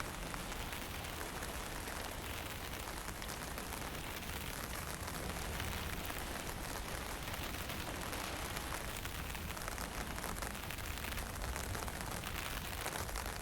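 Wind blowing with a fine drizzle falling: a steady, even hiss over a low, shifting rumble.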